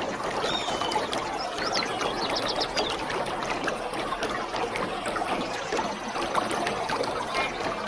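Waterfall rushing steadily, a dense even roar of falling water, with a few short high chirps over it.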